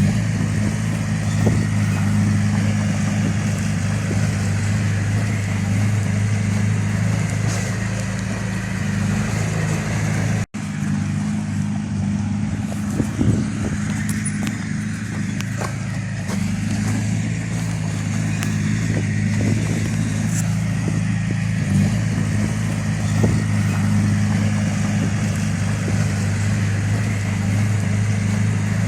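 Heavy-equipment diesel engine running steadily under work, with a short gap about ten seconds in where the recording cuts.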